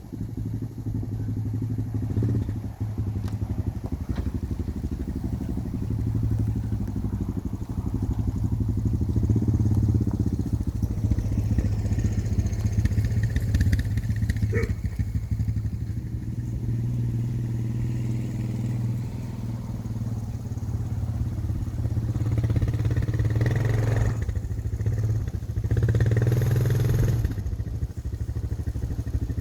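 Gas engine of a portable bandsaw sawmill running steadily, rising and falling a little in loudness, with one sharp click about halfway through.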